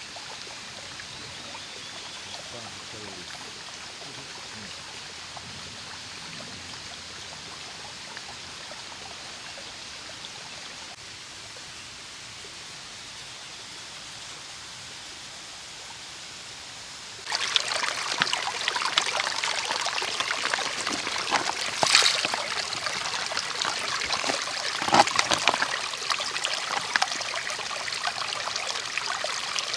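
A faint, quiet outdoor background, then, a little past halfway, a sudden change to louder running, trickling water with a dense splashing texture.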